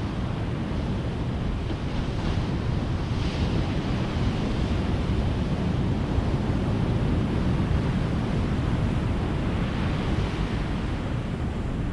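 Ocean surf: waves breaking and washing in as a steady low rumble, with a brighter hiss of breaking water swelling about two to three seconds in and again near the end.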